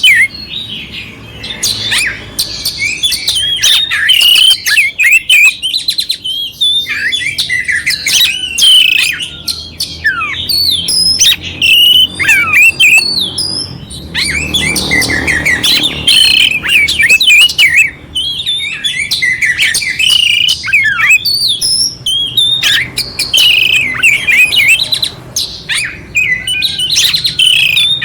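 Oriental magpie-robin (kacer) singing nonstop: a fast, varied run of clear whistled phrases mixed with harsh, rasping fill notes.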